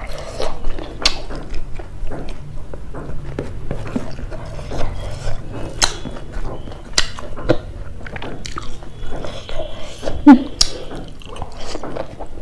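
Close-miked chewing and wet mouth sounds, with many short smacks and clicks. About ten seconds in there is a brief pitched mouth sound, the loudest moment.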